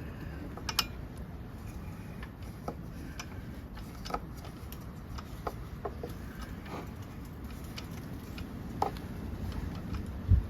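Scattered light clicks and taps of small handling noises, irregular and a second or two apart, over a steady low rumble.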